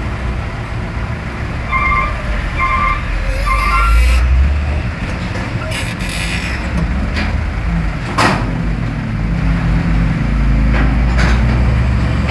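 Heavy trucks passing close by on a road, their engines giving a deep steady rumble. About two seconds in come three short, evenly spaced beeps, followed by a few short bursts of hiss.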